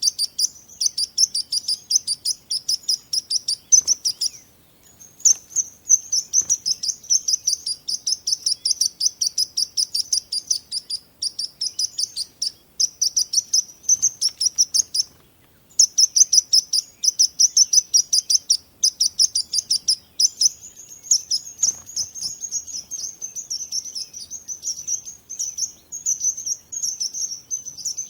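Bird chirping in a fast, steady run of short high chirps, several a second, broken by two brief pauses.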